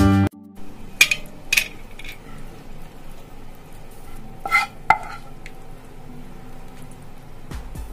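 A metal utensil clinking and scraping against a steel plate of food a handful of times, the loudest pair of clinks a little past the middle, over a low steady background. Intro music cuts off just at the start.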